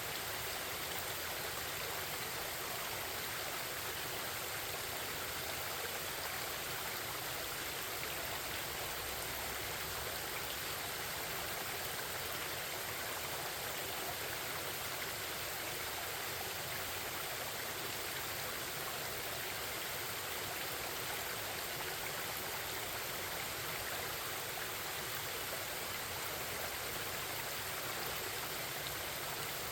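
Forest stream babbling: water flowing steadily over rocks, an even rushing hiss with no change.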